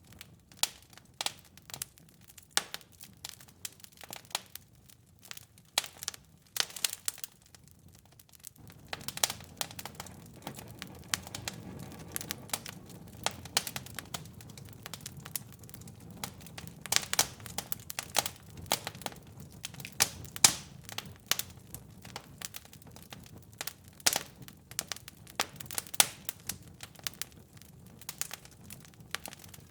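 Wood fire in a fireplace crackling, with sharp, irregular pops and snaps. About nine seconds in, a low steady rumble sets in underneath the crackling.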